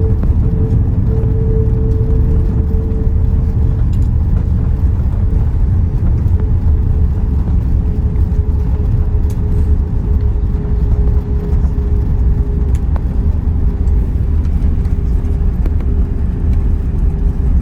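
Airliner cabin noise aboard a Lufthansa Airbus A340-600 with Rolls-Royce Trent 500 engines: a loud, steady low rumble with a thin engine whine that drifts slightly lower in pitch.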